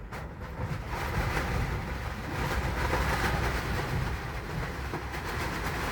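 Heavy wind gusting, a loud rushing and rumbling that swells about a second in and keeps up.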